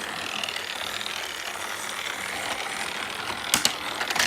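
Motorized Thomas Trackmaster toy train's small electric motor and plastic gears whirring steadily as it runs along plastic track, with a few sharp clicks about three and a half seconds in and again near the end.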